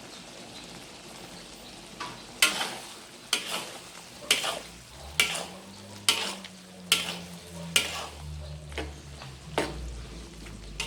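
A spoon stirring a simmering sambal in a pot after green peas are added, scraping against the pan about once a second, starting about two seconds in.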